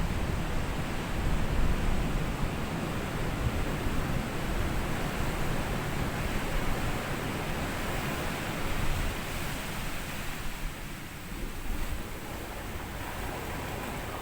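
Small sea waves washing up on a sandy beach, a continuous wash that swells and ebbs, with low wind rumble on the microphone.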